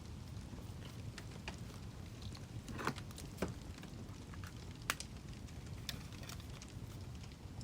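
Wood fire crackling: scattered sharp pops and snaps over a low steady rumble, with a few louder snaps about three seconds in and near five seconds.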